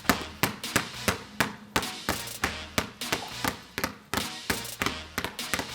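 Two basketballs dribbled at once, bouncing on a hard floor in a steady rhythm of about three bounces a second, some bounces landing almost together as a quick double thud.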